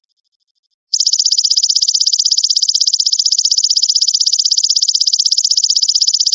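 Belalang emas (golden grasshopper) calling: a loud, rapid, pulsing buzz that starts about a second in and runs for over five seconds. Before it there is only a faint, quiet ticking.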